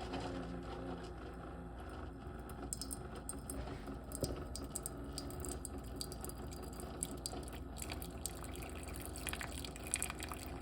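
Keurig K-Cafe brewing coffee: hot coffee streaming and dripping into a cup under a faint steady hum from the machine.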